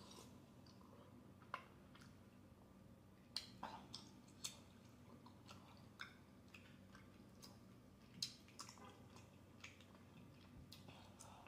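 Faint close-up chewing of spicy tteokbokki rice cakes, with scattered sharp wet mouth clicks every second or so.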